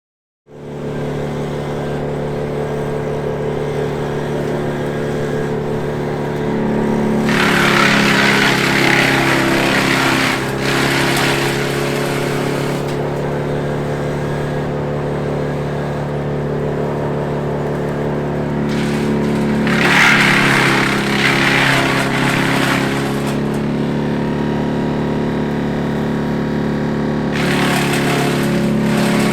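Brush chipper running steadily at speed, with three spells of louder shredding noise as brush and branches are fed through and chipped: about a quarter of the way in, just past the middle, and near the end.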